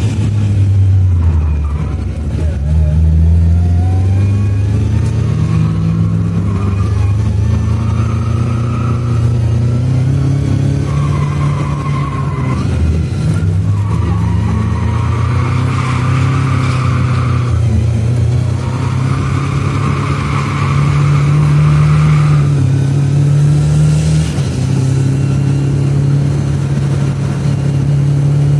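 Lada 2107's 2000 cc Fiat engine heard from inside the cabin on track, its pitch climbing and dropping repeatedly as it accelerates, shifts and lifts for corners. Through the middle several drawn-out squeals of a second or more are heard, which fit the tyres squealing while cornering.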